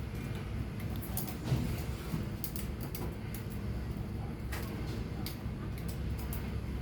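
GFL laboratory water bath running: a steady low hum with scattered faint clicks.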